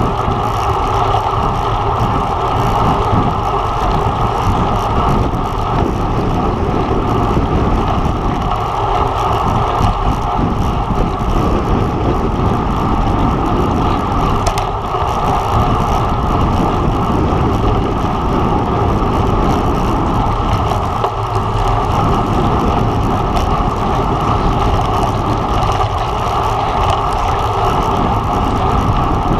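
Steady, loud rush of wind and road noise on the microphone of a camera riding along on a road bike at race speed.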